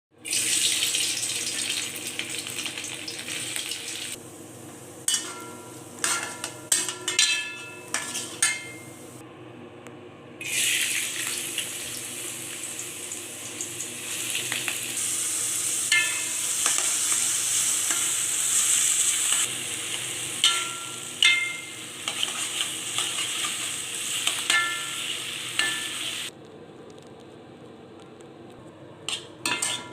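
Food sizzling in a hot frying pan, the sizzle dropping away for several seconds and then coming back, with a metal utensil clinking and scraping against the pan again and again as the food is stirred.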